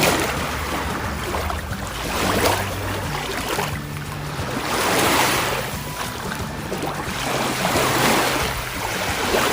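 Lake waves washing onto the shore, the rush swelling and falling about every two and a half seconds.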